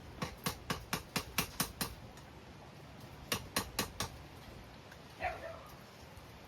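Hammer striking a forge-welded chain link on an anvil: a quick run of about eight light blows, a pause, then four more.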